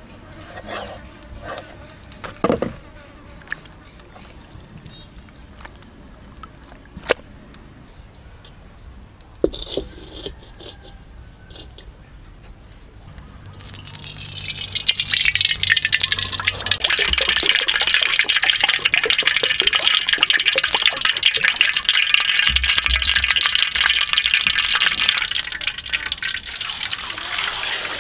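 A few sharp knocks of a cleaver cutting raw cow intestine. About halfway through, cooking oil pours into a steel wok, and then a loud, steady sizzle and crackle follows as the intestine pieces deep-fry in the hot oil.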